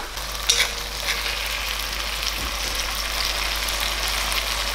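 Curry leaves and sliced shallots sizzling in hot oil in a cast-iron karahi: a steady frying hiss, with one sharp tap about half a second in.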